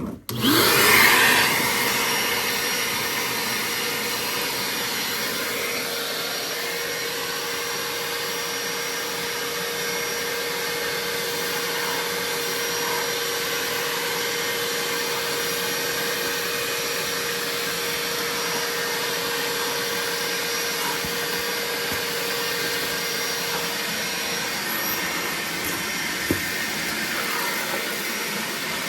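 BAUER 3-gallon, 3 peak HP wet/dry shop vacuum switched on, surging loudest in its first second, then running steadily and loudly. A faint steady hum within it drops out near the end, and a single sharp click comes a couple of seconds later.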